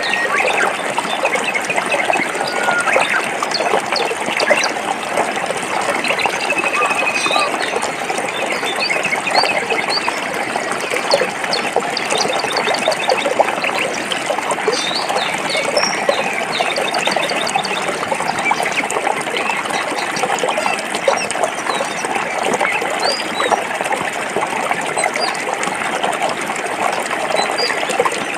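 Forest stream running over rocks, a steady rush of water, with small birds chirping and trilling now and then above it.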